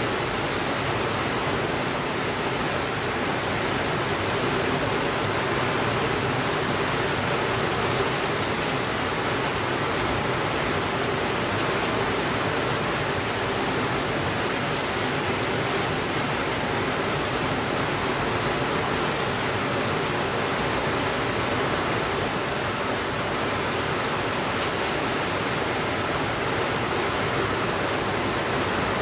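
Steady rainfall, a dense even hiss that holds at one level throughout, with a few faint ticks about two seconds in.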